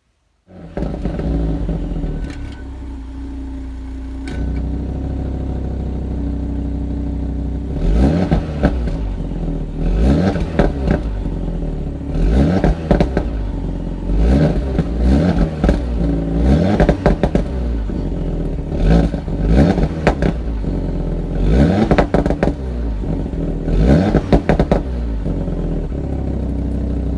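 2015 Audi RS3 Sportback's turbocharged 2.5-litre five-cylinder engine running, then revved again and again from about eight seconds in, roughly every two seconds, each rev rising and falling in pitch.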